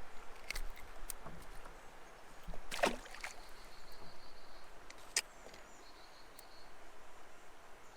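Kayak sounds on a creek: water and hull noises with a few light clicks, and one brief sweeping sound about three seconds in.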